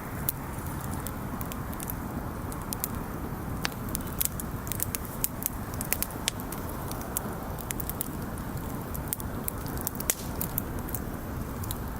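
Wood campfire crackling, with many sharp, irregular pops and snaps of burning wood over a steady low rushing noise.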